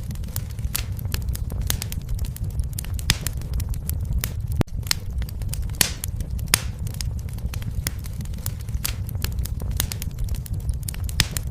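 Wood fire in a fireplace crackling, with irregular sharp pops and snaps over a steady low rumble of burning. There is a momentary gap about four and a half seconds in.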